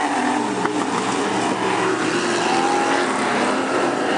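Engines of several Super Stock sedan race cars running hard in a pack, their notes rising and falling against each other as the cars lap the track.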